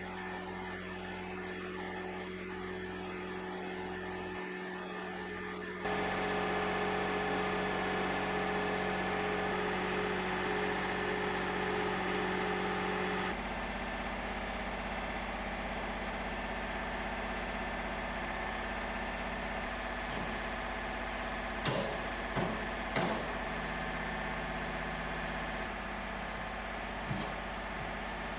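Steady machine hum with fixed tones, changing abruptly twice, with a few sharp knocks in the later part.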